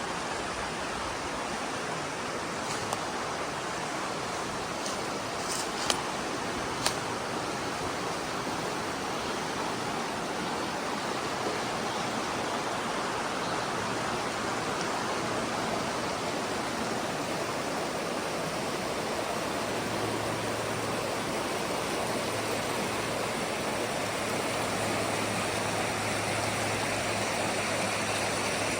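Waterfall rushing in a steady, even roar of water. A few sharp clicks come in the first quarter, and a low steady hum joins about two-thirds of the way through.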